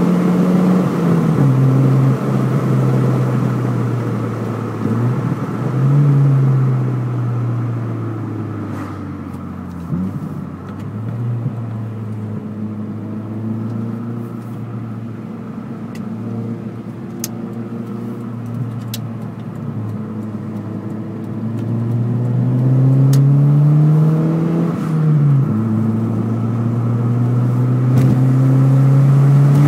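Opel Astra Bertone coupe's 2.2-litre four-cylinder engine through a Cobra Sport exhaust with resonated centre silencer, under way. Engine speed falls and holds fairly steady for a while, then climbs. Near the end it drops sharply, like an upshift, and climbs again.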